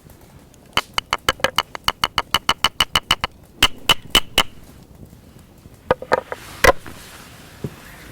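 Camera shutter firing in continuous bursts: a fast, even run of about eight clicks a second lasting a little over two seconds, then a short burst of four, another short burst, and a single click near the end.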